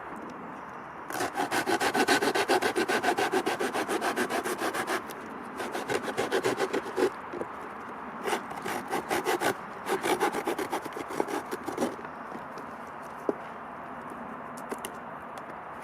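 Folding hand saw cutting wood in quick back-and-forth strokes, in four spells with short pauses, stopping about three quarters of the way through.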